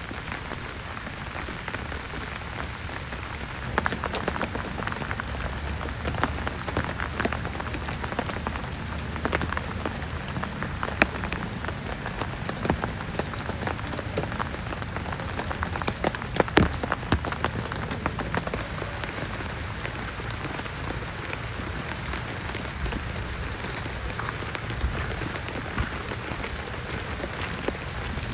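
Heavy rain falling steadily, with many sharp drop impacts close by. The drops come harder and louder from about four seconds in until a little past the halfway point.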